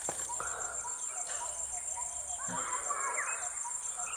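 Insects trilling steadily at a high pitch with a fast, even pulse, while birds give scattered short chirps and whistles over it.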